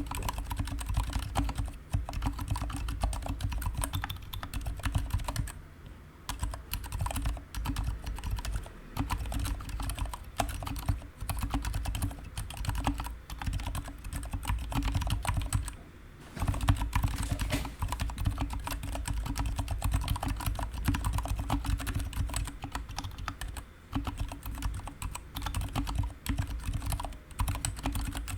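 Continuous fast typing on a GK61 mechanical keyboard with stock, unlubed Gateron silent brown switches and PBT pudding keycaps. It is a rapid run of muted key presses, broken by a few short pauses.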